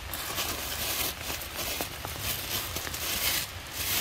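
Light rain pattering on wet grass and leaves: a crackly hiss that swells and fades in irregular bursts.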